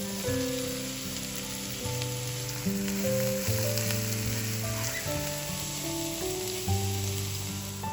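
Food sizzling as it fries in a hot pan, a steady crackling hiss, over background music.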